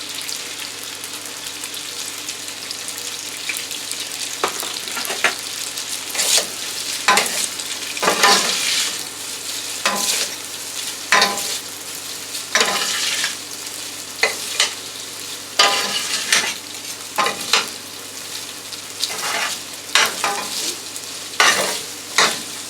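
Pasta sizzling in a frying pan as it is stirred and tossed in the pan drippings, with a steady frying hiss and irregular scrapes and clacks of the utensil against the pan, every second or so from about four seconds in.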